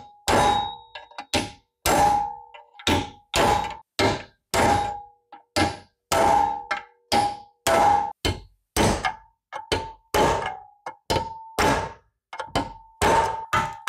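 Hammer blows on a steel part: a steady series of sharp metallic strikes, about two a second, each leaving a short ringing note at the same pitch.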